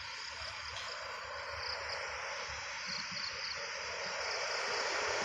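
Outdoor ambience with a steady hiss and insect buzz, and a faint low rumble slowly growing louder as a train approaches.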